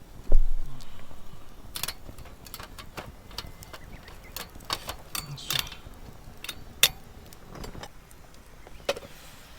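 A low thump, then a run of scattered light clinks and clatters, like gear being handled and set down.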